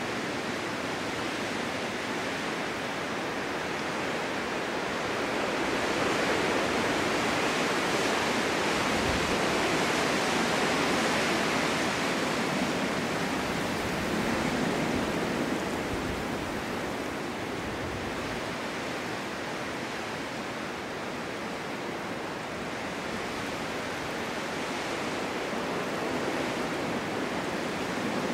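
Snowstorm wind blowing as a steady rushing noise that swells louder for several seconds about a quarter of the way in, then eases back.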